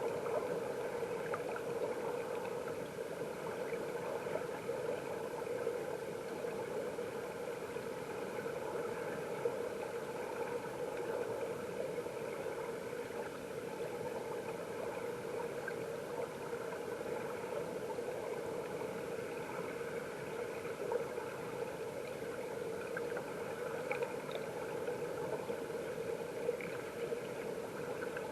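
Mountain stream water flowing and bubbling, heard underwater: a steady, muffled rush with faint scattered ticks.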